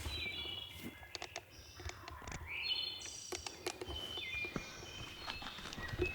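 Songbirds chirping and singing in short high notes, with scattered light crackles and rustles in dry leaf litter.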